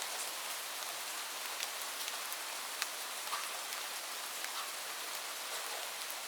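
Light rain falling steadily: an even hiss with scattered individual drops ticking here and there.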